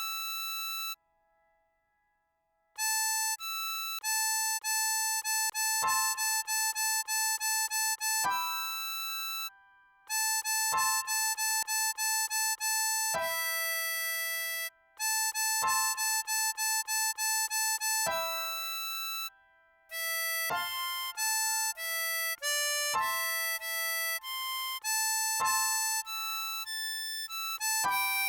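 A 10-hole diatonic harmonica playing a melody at half speed, note by note, with many quick repeated notes and a few short pauses between phrases.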